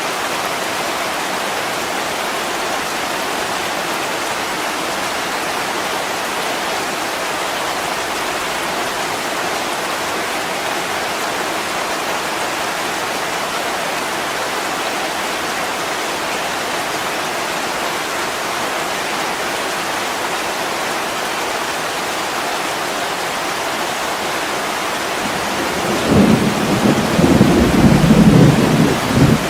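Steady heavy rain streaming on a window, with a low rumble of thunder rising near the end and lasting about three seconds.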